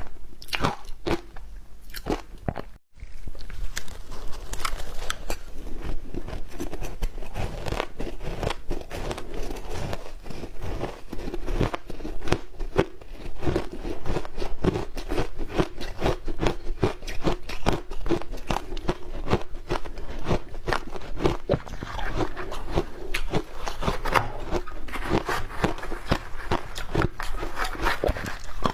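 Matcha-powdered ice being bitten and chewed close to the microphone: dense, irregular crunching and cracking of hard frozen chunks, with a brief break about three seconds in.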